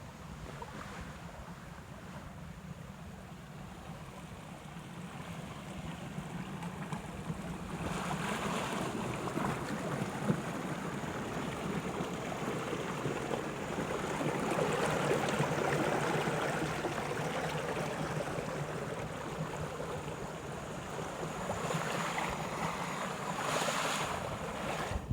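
Water washing in surges, swelling up a few seconds in, easing, then rising again briefly near the end, over a steady low hum.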